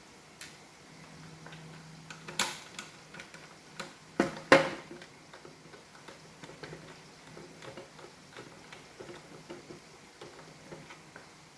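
Small clicks and knocks of plastic robot-vacuum parts being handled and fitted together by hand, with a few sharper, louder knocks about two and a half and four and a half seconds in.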